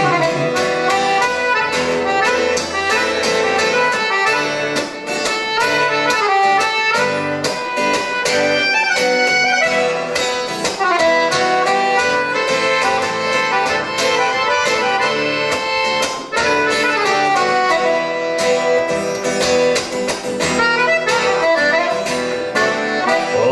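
Instrumental break of a Brazilian popular song: an accordion carries the melody over guitar, with a steady beat.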